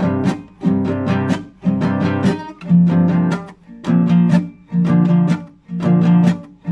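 Classical guitar played solo, improvised: short phrases of plucked and strummed notes, each ringing about a second, with a brief drop between phrases.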